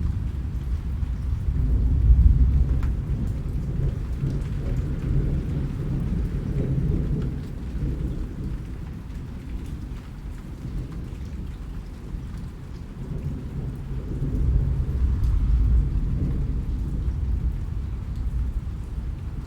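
Steady rain with fine drop ticks over a low rolling rumble of thunder, which swells about two seconds in and again near three-quarters of the way through.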